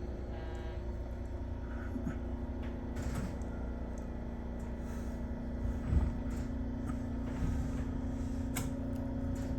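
Running noise inside an Aichi Loop Railway 2000-series electric train: a steady low rumble with a constant hum, and a few short clicks and knocks from the wheels on the track.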